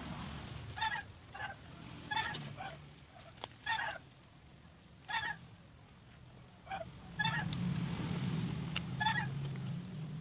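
A bird in the background giving about eight short, clear-pitched calls at irregular gaps of roughly half a second to a second and a half. A low rumble comes up about seven seconds in.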